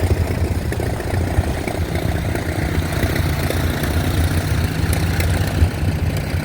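Vintage tractor engines idling in a steady low drone.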